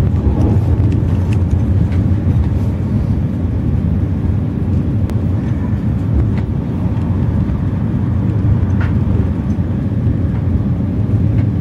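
Steady low rumble of a passenger train running at speed, heard from inside the carriage, with a few faint clicks and rattles.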